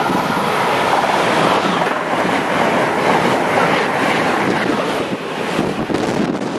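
A train passing close by at speed: a loud, steady rush of wheels on rail with some clatter, easing a little near the end.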